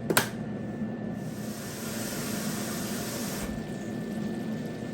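A sharp knock, then a steady hiss for about two and a half seconds that cuts off suddenly, over a low steady hum.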